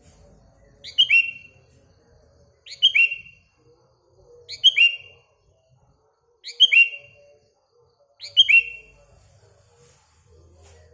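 Short, sharp bird call with a quick falling note, repeated five times at even intervals of about two seconds, each repeat the same.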